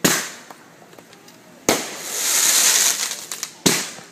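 Aerial fireworks bursting overhead: three sharp bangs about two seconds apart, the middle one followed by a second or so of crackling.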